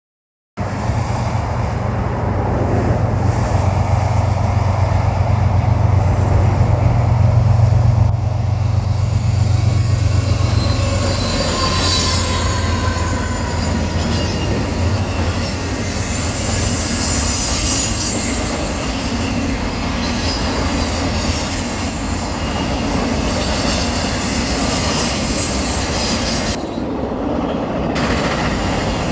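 Freight train passing: the lead BNSF diesel locomotives hum loudly for the first ten seconds or so, then the garbage train's cars roll by with a steady rumble and wheels squealing.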